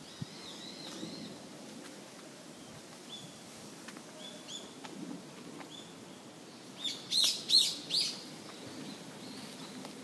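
Wild songbird calling among the trees. Short high chirps come scattered through the first half, then a run of about four louder, harsher calls about seven seconds in.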